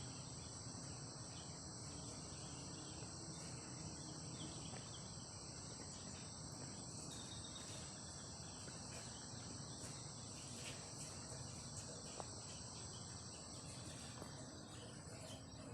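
A steady insect chorus, a continuous high-pitched trilling that holds without a break, over a faint low background hiss.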